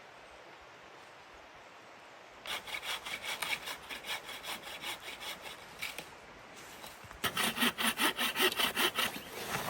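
Hand saw cutting wood in quick back-and-forth strokes, about four a second, starting about two seconds in. The sawing pauses briefly, then resumes more loudly near the end.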